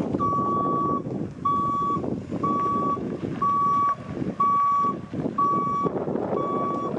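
Truck back-up alarm beeping steadily about once a second, seven beeps, while the vehicle reverses, with wind noise on the microphone underneath.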